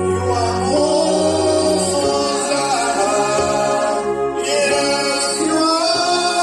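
Church worship music: voices singing long held notes over a steady low accompaniment.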